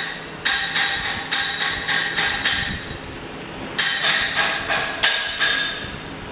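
A hammer striking metal again and again, each blow ringing, in two quick runs of about two to three blows a second with a short pause about three seconds in.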